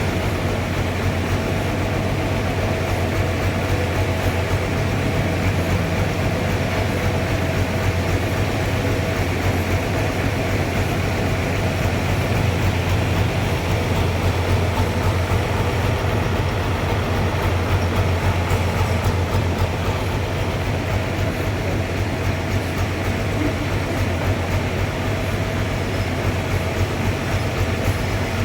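Sawmill machinery running steadily: a loud, even low drone with a faint steady whine above it.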